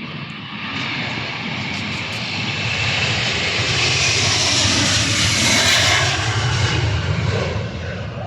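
Airplane engines passing close by: the noise swells to a peak about two-thirds of the way through, then starts to fade.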